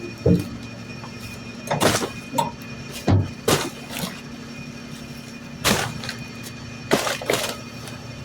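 Garbage truck at work: a series of sharp knocks and thuds, about nine in all, over a steady hum.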